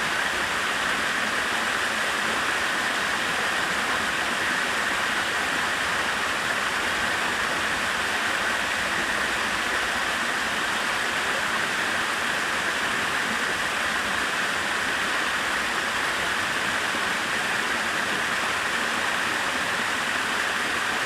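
Stream water rushing steadily over a small waterfall into pools.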